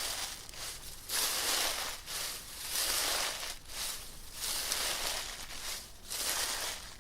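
Dry fallen leaves crunching and rustling as they are stepped on: a run of irregular crackling rustles, each lasting up to about a second, with short pauses between.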